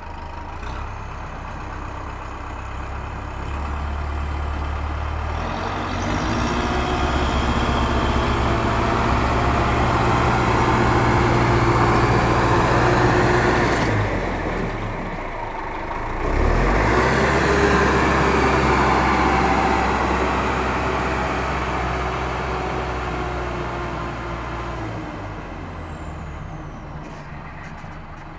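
A heavy vehicle's engine running, swelling louder over the first half, dropping away briefly about halfway and then picking up again before slowly fading. A thin falling whistle is heard near the end.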